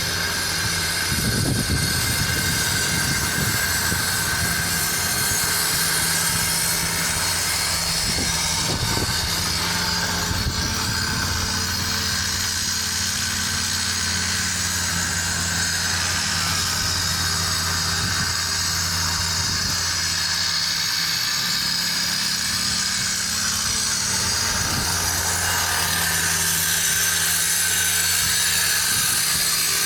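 Steady low drone of a large idling engine over city street noise, with a thin steady high whine above it.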